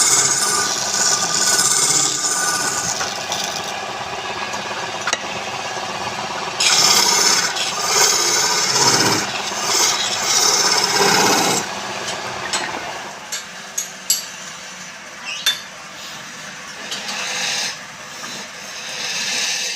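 Wood being worked on a woodturning lathe: a continuous rasping scrape of the tool against the spinning wood, coming in uneven passes that grow louder in the middle. After about twelve seconds it turns quieter, with a few sharp clicks.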